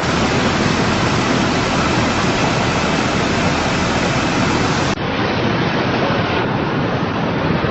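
Loud, steady rush of floodwater, with a brief dip about five seconds in.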